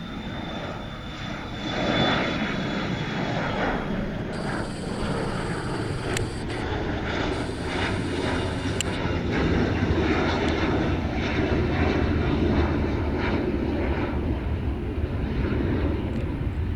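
Jet airliner engines growing louder over the first two seconds, then a steady loud rumble that deepens in its low end later on.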